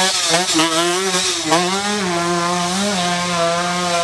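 Trail motorcycle engine revving hard at high rpm as the bike climbs a steep dirt hill. The pitch holds high, with brief dips and rises as the throttle is chopped and reopened, twice early on and again about two and three seconds in.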